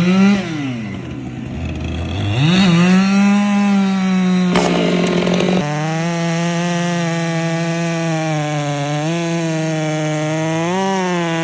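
Stihl MS 500i fuel-injected two-stroke chainsaw revved twice, then held at full throttle. About five seconds in the pitch drops a little and it runs steadily under load, cutting into oak, with a couple of brief dips in speed.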